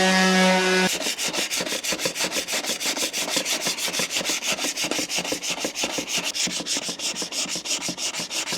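A power tool's steady whine cuts off just under a second in. It is followed by fast, even back-and-forth rubbing strokes, about seven a second, as the welded area of an aluminum wheel is cleaned up by hand with an abrasive.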